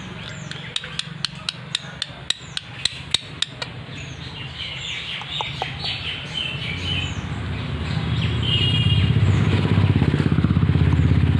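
Birds chirping over a run of sharp, evenly spaced taps, about three a second, in the first few seconds; from about halfway a low, pulsing engine-like rumble builds and grows louder.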